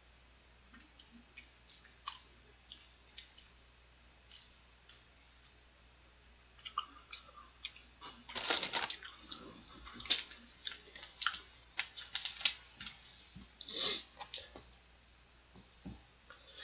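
Someone eating fried chicken close to the microphone: small scattered clicks and crunches of chewing and tearing the fried coating, sparse at first and busier from about seven seconds in.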